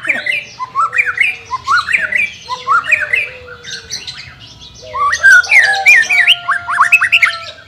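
White-rumped shama singing: a string of similar rising whistled phrases, about one a second, then a louder, more varied burst of song about five seconds in.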